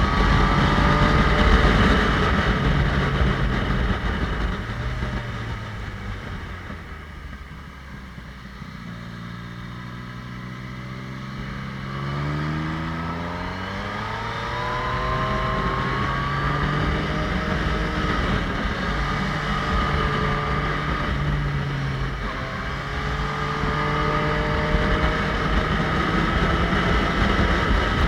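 Motorcycle engine under way: it eases off and drops low for a few seconds, then rises in pitch as it accelerates about ten seconds in, and runs fairly steadily after that.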